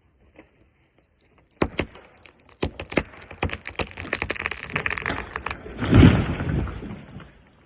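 A pine tree falling: sharp cracks of the wood breaking, then a building crackle of branches snapping, and a heavy crash as it hits the ground about six seconds in, fading out after.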